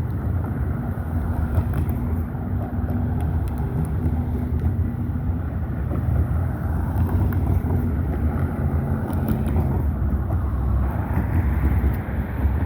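Heavy road traffic: cars and their engines passing steadily in a continuous low rumble, with one engine's hum standing out for a few seconds near the start.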